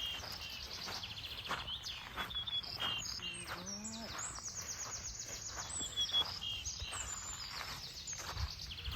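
Small birds singing: repeated high chirps and quick trills from more than one bird, over a faint steady outdoor hiss.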